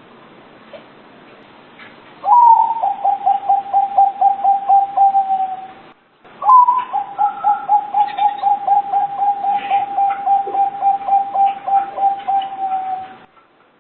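Zebra dove (perkutut) cooing: two songs, each opening with a higher note and running into an even string of short rolling coos, about four a second, the second song longer than the first.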